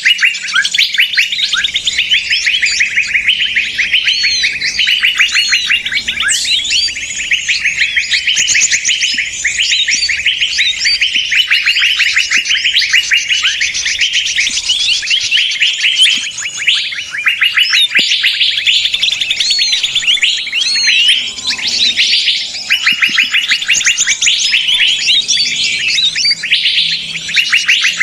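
A noisy chorus of small songbirds chattering and chirping rapidly, many calls overlapping without pause. It is a bird-trapping lure recording, played to draw small birds in.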